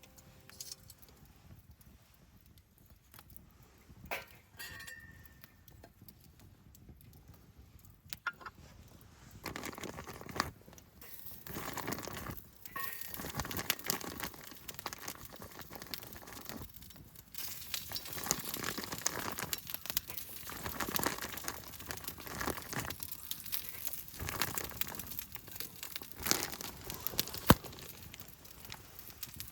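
Crinkling and rustling with many small clicks and clinks of things being handled: sparse at first, then dense from about ten seconds in.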